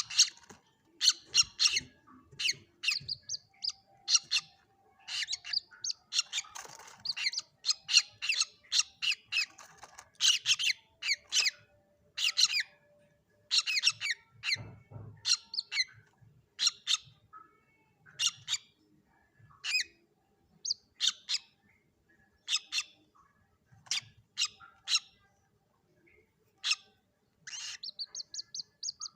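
Juvenile common moorhen (mandar batu) calling: many short, high chirps in irregular clusters, ending in a quick run of rapid peeps.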